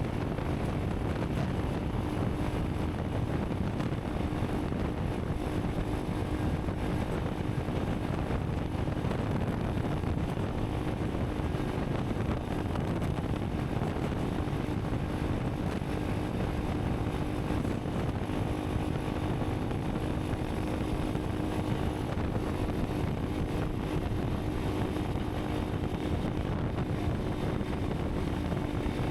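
Honda CRF300 Rally's single-cylinder engine running at a steady speed while riding, with wind rumble over the microphone.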